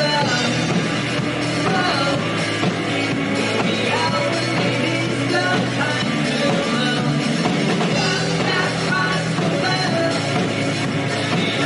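Rock band playing live: a singing voice over electric guitars, bass and drums, loud and steady throughout.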